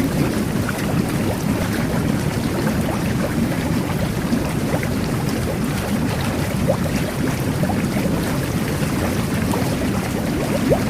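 Jet bath churning the bathwater: a steady, low, bubbling rush with small pops of bursting bubbles.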